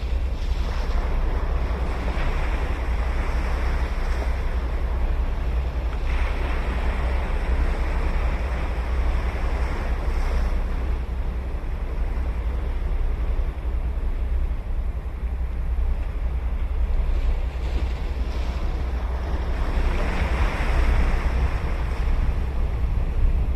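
Ocean surf breaking and washing up a beach, swelling louder every few seconds as each wave comes in, over a steady low rumble of wind on the microphone.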